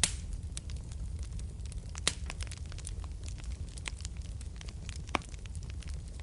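Wood fire crackling in a fireplace: a steady low rumble of the flames with many small sharp crackles and three louder pops, at the very start, about two seconds in and about five seconds in.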